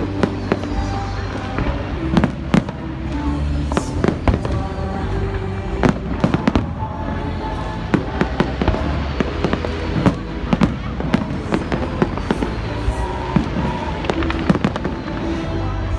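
Fireworks going off in a dense, irregular run of sharp bangs and crackles, over music playing.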